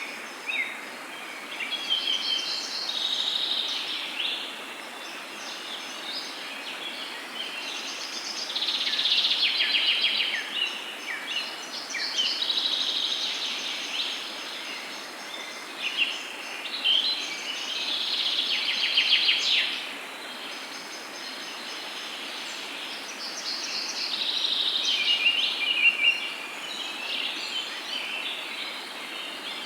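Songbirds singing in repeated trilled and chirping phrases, several seconds apart, over a steady background hiss.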